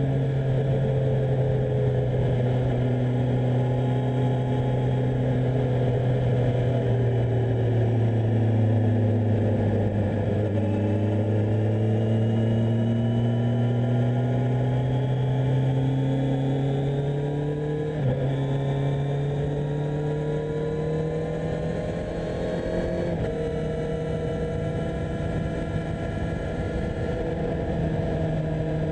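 Kawasaki Z1000SX inline-four engine running under way at steady mid revs, its pitch sagging slowly and then climbing gradually. Near the end the pitch jumps abruptly twice.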